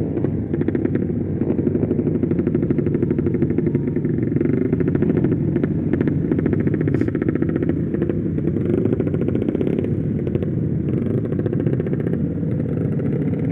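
Freshly rebuilt motorcycle engine running steadily under way, a fast even stream of exhaust pulses with no marked revving.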